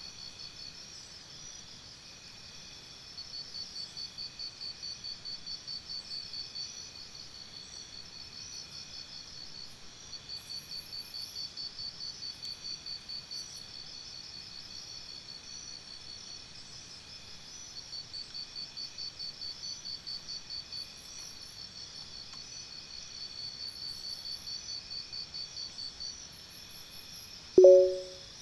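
Crickets chirping in a nature-sound backdrop: high, fast pulsed trills that come in runs of a few seconds with short pauses between them. Near the end a loud electronic timer beep sounds once, marking the end of the 30-second exercise interval.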